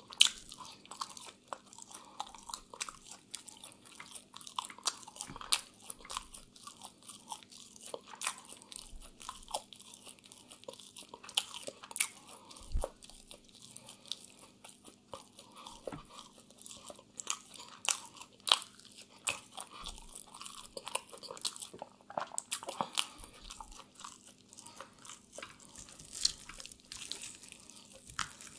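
Close-miked chewing of grilled chicken dipped in mayonnaise: crunchy bites and wet mouth clicks coming thick and fast.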